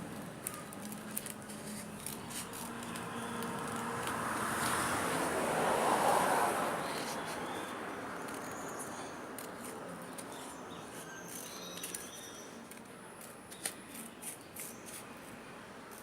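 Scissors cutting paper, with paper rustling that swells in the middle and a few sharp snips near the end.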